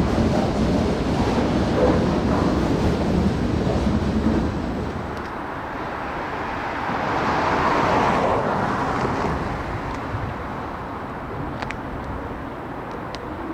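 A freight train rumbles past on the rails and drops away about four seconds in. A broad rushing noise then swells and fades in the middle, leaving steady outdoor background noise.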